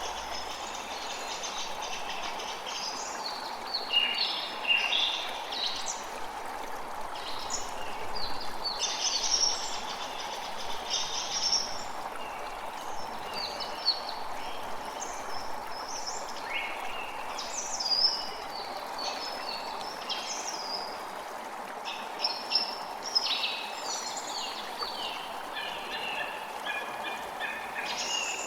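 Creek water running steadily, with songbirds chirping over it throughout.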